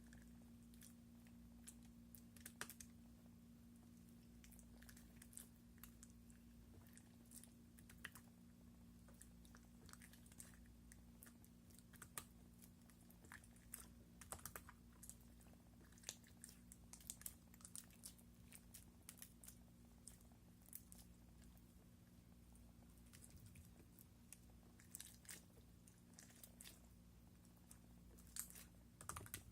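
Slime being squeezed and poked by hand, giving faint, irregular little clicks and crackles over a steady low hum.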